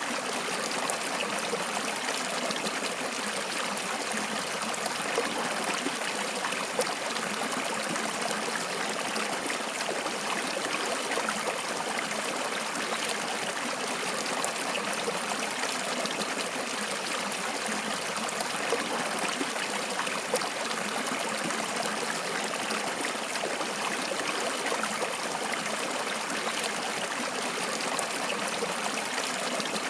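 Flowing water running steadily and continuously, with no break or change.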